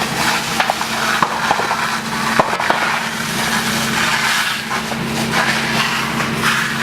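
Bamboo burning intensely in a wildfire: a dense rush of flame noise with loud, irregular crackles and pops as the culms burst from the heat, over a steady low hum.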